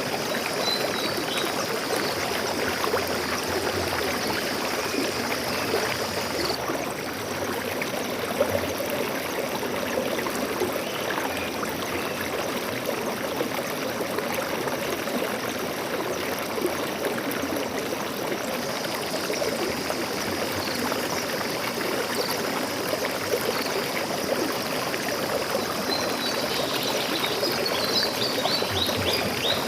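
Forest stream flowing steadily, an even rushing and trickling of water. A few faint, high bird chirps come about a second in and again near the end.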